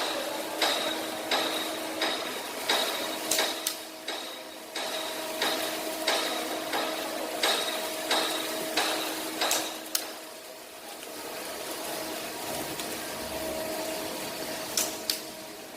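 A hammer striking metal on engine parts, steady blows about one and a half a second with a metallic ring after each. The blows stop about ten seconds in, leaving a low steady workshop noise and a couple of light clicks near the end.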